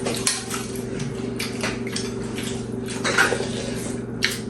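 Spoons or chopsticks clinking against bowls and plates several times during a meal, over a steady low hum.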